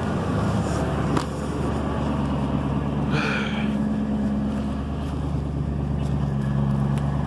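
Ford Crown Victoria Police Interceptor's 4.6-litre V8 idling steadily at the tailpipes, still cold from a start in freezing weather, with smoke coming from the exhaust.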